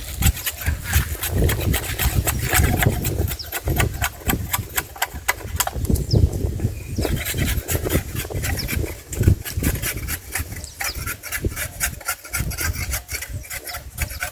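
Wood being worked by hand: rapid, irregular scraping and rubbing with many small knocks and clicks.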